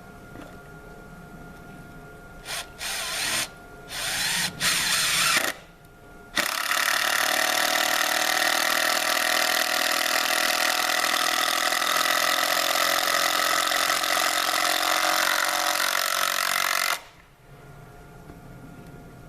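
Impact wrench driving a lag bolt into a landscaping timber: a few short bursts, then one steady run of about ten seconds that cuts off suddenly.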